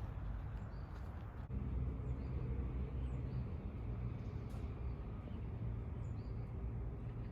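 A steady low mechanical hum, like an engine running, with faint high chirps like small birds over it. The hum changes abruptly about a second and a half in and then carries on.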